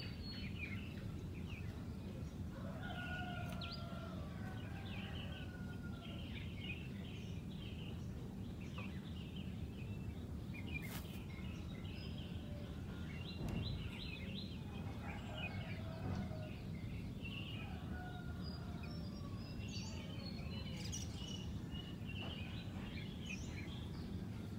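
Red-whiskered bulbuls singing in short, chirpy phrases that come and go, over a steady low background rumble.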